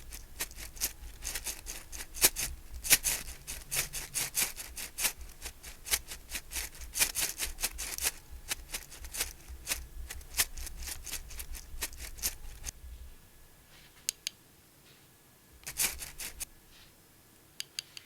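Close-miked scratching, rubbing and clicking of makeup work on a mannequin: a dense run of quick scratchy strokes and clicks that stops about thirteen seconds in, followed by a few scattered clicks.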